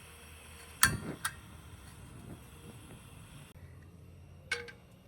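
Sharp metallic or glassy clinks of cooking gear being handled: two close together about a second in, and a third near the end, each ringing briefly.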